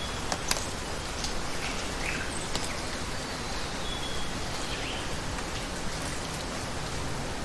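Steady rush of water, with a few sharp ticks in the first couple of seconds and some brief, faint bird chirps.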